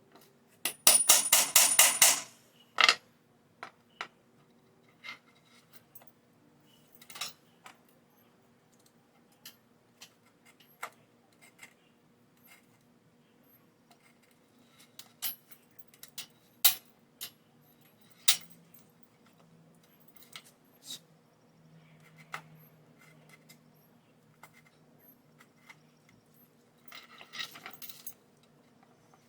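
Hammer tapping a grommet-setting tool, setting metal grommets in a leather belt: a quick run of about a dozen sharp metallic taps near the start, then scattered single clicks and knocks, and a short cluster of taps near the end.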